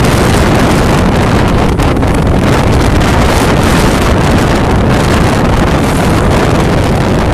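Storm wind buffeting the microphone: a loud, steady rushing roar, heaviest in the low rumble.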